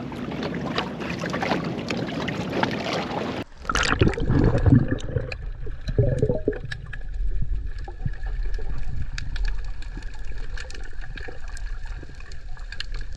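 Wind and sloshing water noise on the microphone at the surface. About three and a half seconds in, this cuts abruptly to muffled underwater sound: a low rumble with bubbling and scattered faint clicks.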